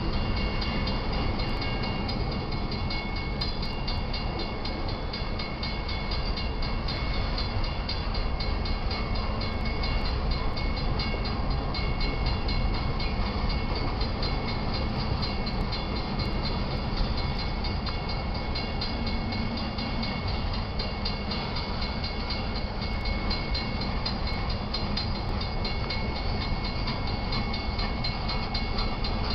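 Union Pacific manifest freight train rolling steadily past on the rails: a continuous rumble of cars and wheels, with frequent light clicks and a faint high ring of steel wheels on rail.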